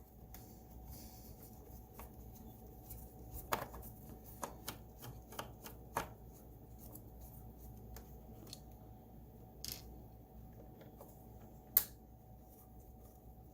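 Scattered light clicks and taps of a screwdriver and plastic parts being handled while removing the wheel module from a Roomba i7 robot vacuum, the sharpest click near the end.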